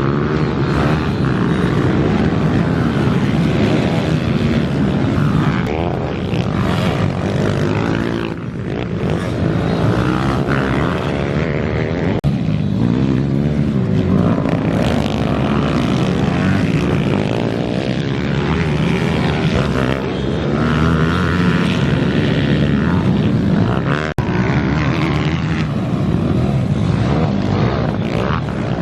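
Bucci F15 pit bike's four-stroke engine running hard through a race, its pitch rising and falling as the throttle opens and closes.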